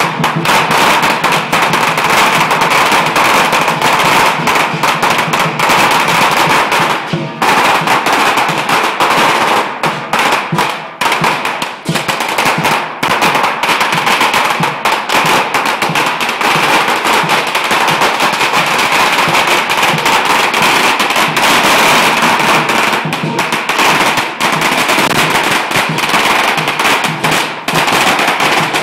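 Strings of firecrackers going off in a continuous, rapid crackle of loud pops, thinning briefly a couple of times.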